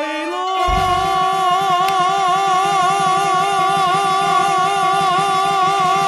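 A singer holds one long high note with vibrato over a backing track with a steady beat.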